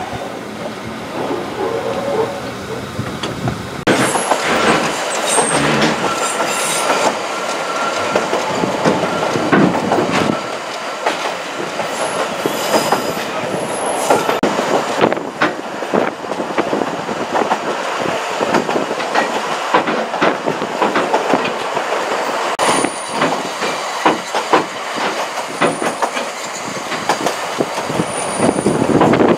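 Narrow-gauge steam train running, heard from one of its carriages: steady rolling noise with the wheels clattering over rail joints and squealing on the curves. The louder running starts about four seconds in.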